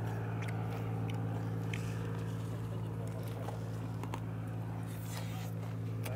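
Chewing and biting on soy-sauce fried chicken with shredded green onion, heard as scattered crisp clicks, over a steady low hum.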